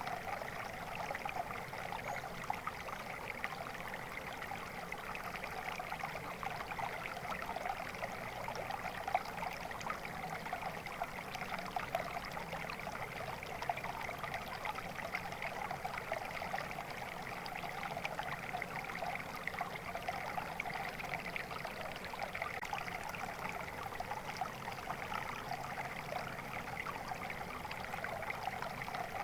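Flowing water: a steady, even babble of a stream or brook running over rocks.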